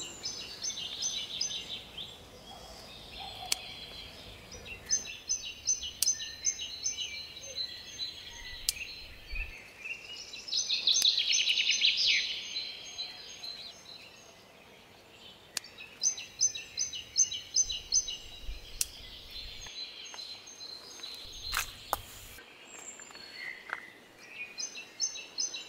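Small garden birds singing: repeated runs of quick, high, evenly spaced notes, with a louder fast trill about eleven seconds in. A few sharp clicks are heard now and then.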